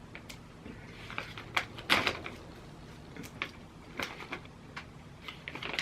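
Someone biting and chewing a piece of dried pineapple ring, heard as scattered small clicks and crackles at an irregular pace, a little louder about two seconds in.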